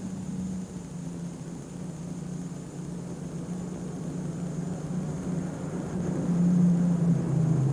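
Alcohol-burning Farmall 560 super stock pulling tractor running flat out under load. Its engine is a steady drone that grows louder near the end and then drops in pitch.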